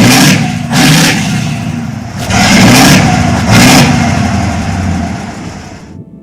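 Mack Super-Liner truck's diesel engine revving in about five loud surges, then dying away and fading out near the end.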